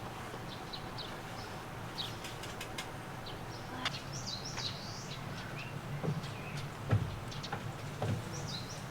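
Small birds chirping: many short, high, downward calls repeated throughout. A few knocks come in the second half, the loudest about seven seconds in.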